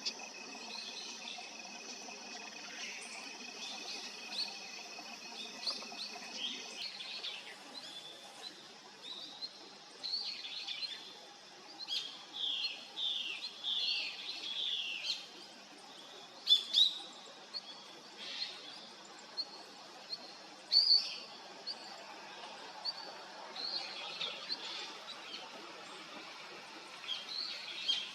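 Small wild birds calling outdoors: a busy series of short, high chirps and quick falling notes. The calls come thickest in the middle, and two sharp, louder calls come about two-thirds of the way through.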